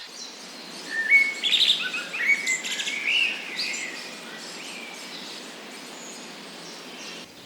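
A small bird chirping in a quick run of short, high notes for about two and a half seconds, then only a steady background hiss.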